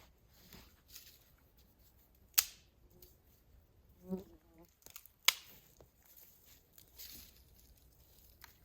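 A fly buzzing briefly past about halfway through, against faint forest background. Two sharp clicks or snaps, the loudest sounds, come about two and a half and five seconds in.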